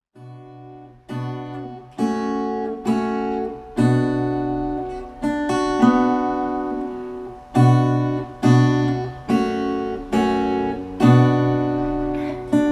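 Acoustic guitar strumming chords, about one strum a second, each chord ringing out and fading before the next. It is the instrumental intro before the voice comes in.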